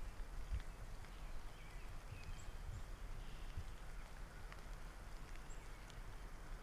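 Wind rumbling on the microphone in a snowstorm, with a few faint, short high chirps scattered through.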